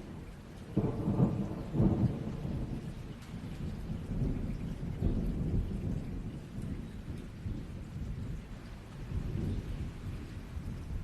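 Thunderstorm: steady rain with rolling thunder, two louder thunder peaks about one and two seconds in, then a continuing low rumble.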